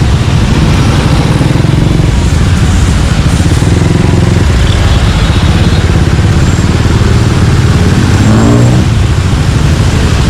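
Suzuki Gixxer 155's single-cylinder engine running through an aftermarket exhaust, a steady low exhaust rumble in street traffic. About eight seconds in, a sound sweeps down in pitch.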